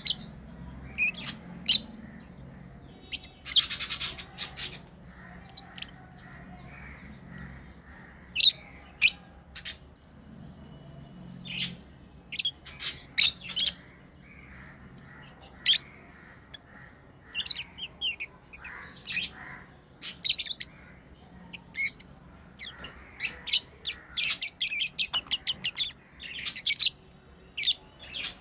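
Pet lovebirds chirping: sharp, high-pitched calls in short irregular bursts, coming thicker and faster near the end.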